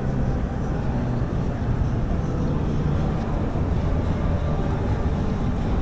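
Steady low rumble of a busy indoor exhibition hall, a constant noisy din with no distinct events.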